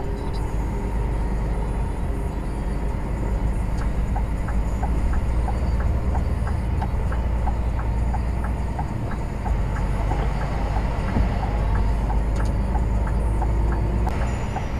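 Steady low drone of a lorry on the move, heard from inside the cab. From about four seconds in until near the end, a regular ticking runs at about two ticks a second.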